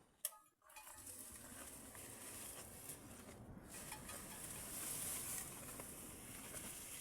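Steady rain hiss, with scattered light clicks and clinks through it and a brief drop-out just after a sharp click near the start.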